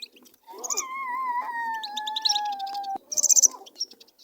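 Small cage finches chirping in quick high bursts, loudest about three seconds in. Under them a long, slowly falling wail is held for about two and a half seconds and stops abruptly.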